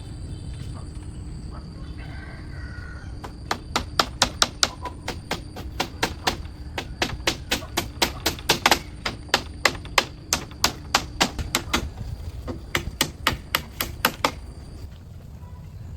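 Rapid, sharp striking on wood or bamboo, about three to four blows a second, starting a few seconds in and stopping near the end, with a brief pause in between.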